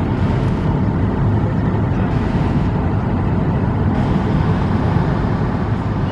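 Steady low rumble of cabin noise inside an Airbus A220-300 on the ground before takeoff, with a faint steady hum on top.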